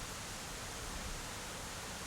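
Steady, even rushing of a mountain stream.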